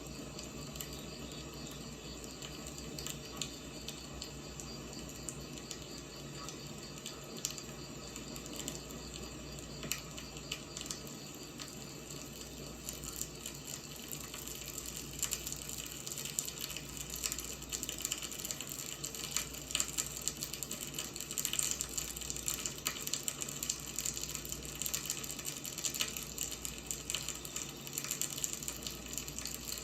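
Wood fire burning with a steady hiss and frequent sharp crackles and pops, which grow denser and louder from about halfway through.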